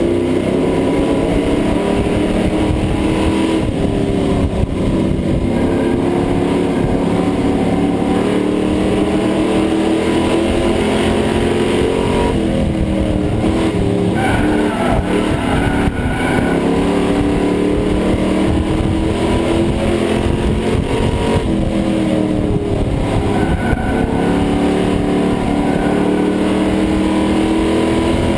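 Pro Truck race engine heard from inside the cab at racing speed. Its pitch climbs steadily, drops sharply twice as the driver lifts off, then climbs again, over steady wind and road noise.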